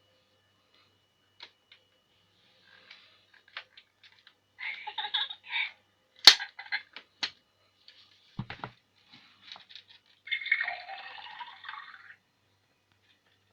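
Fisher-Price toy teapot's electronic water-pouring and dripping sound effect coming in short spells, with sharp clicks of its plastic being handled, the loudest click about six seconds in, and a longer pouring sound near the end.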